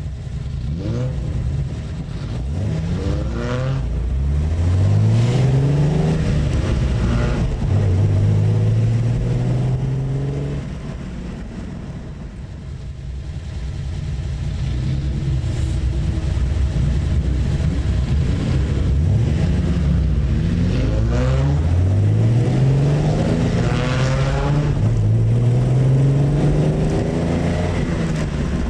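Classic Nissan L-series straight-six accelerating hard through the gears: the engine note climbs, drops at each upshift and climbs again, then holds steady. This happens twice, the second run starting about twenty seconds in.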